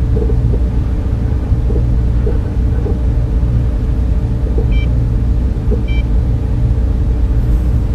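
Steady low rumble and hum of a data center's server fans and cooling equipment, with several constant droning tones. Two short faint beeps come about five and six seconds in.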